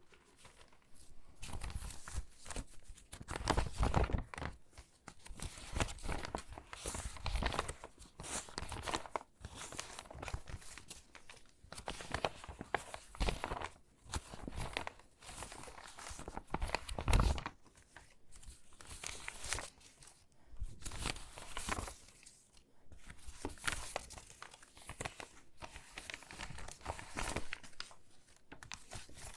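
Crinkly water-damaged magazine pages being handled and sorted by hand: stiff paper crackling and rustling in irregular bursts with short pauses between them, one sharper, louder crackle about halfway through.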